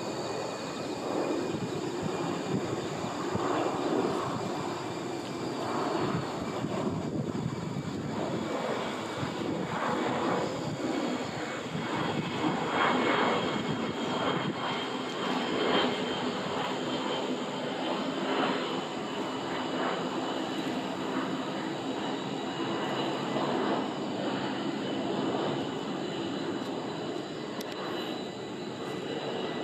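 A steady engine drone, like an aircraft passing overhead: a rumbling hiss that swells and fades over the seconds, with thin steady high tones above it.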